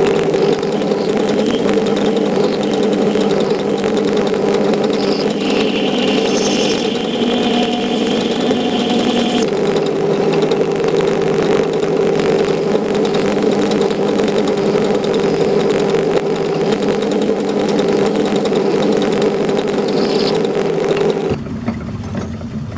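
Metal lathe running steadily under a light cut across a steel plate, with a thin, higher cutting whine for a few seconds, from about five to nine seconds in. The machine noise cuts off sharply about a second before the end.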